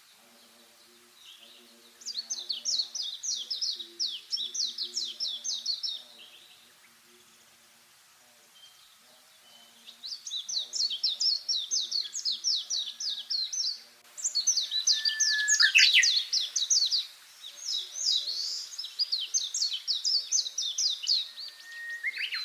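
Songbird singing: bursts of rapid, high chattering notes, each phrase lasting about four seconds. The phrases come closer together and get louder from about two-thirds of the way in.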